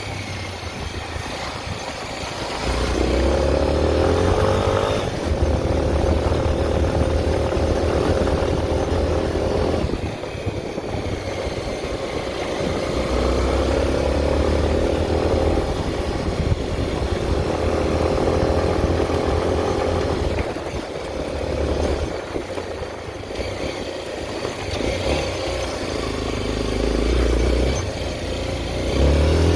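Honda XR 250 Tornado's single-cylinder four-stroke engine under way, its pitch climbing and dropping again several times as the bike accelerates and shifts.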